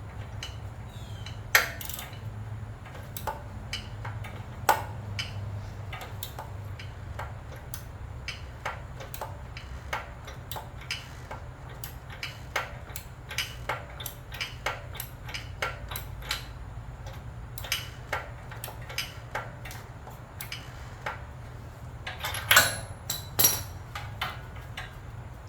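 Hand tools working on metal: irregular small clicks and clinks, a few louder metallic knocks about a second and a half in, around four and a half seconds in, and a cluster near the end. A steady low hum runs underneath.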